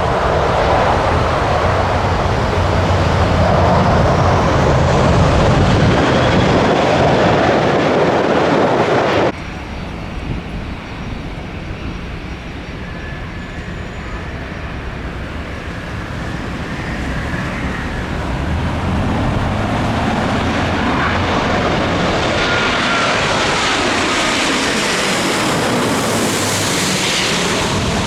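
Jet airliner noise: a Boeing 747-400's engines run loud after landing and cut off abruptly about nine seconds in. Then a quieter Airbus A350-900 approaching grows steadily louder, with a faint engine whine.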